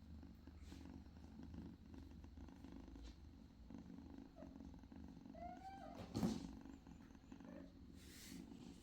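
British Shorthair kitten purring steadily, with a short mew about five and a half seconds in and a sharp tap or knock just after it.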